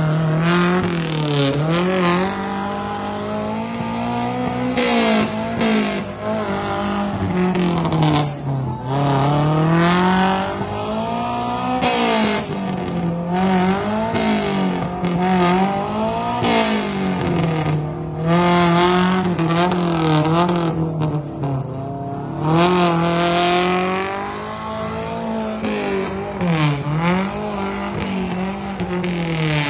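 Suzuki Vitara's engine revving hard over and over as the 4x4 churns through deep mud, its pitch rising and falling every second or two.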